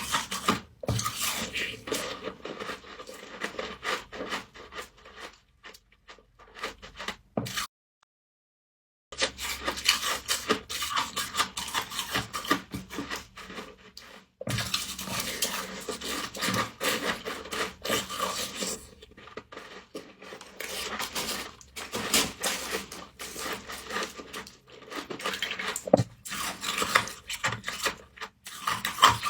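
Frost being scraped and crunched up close, a dense, irregular crackling rasp, broken by about a second and a half of dead silence around eight seconds in.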